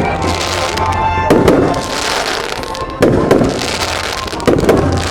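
Aerial fireworks going off: three loud bangs about a second and a half apart, each followed by crackling as the shells burst and burn out.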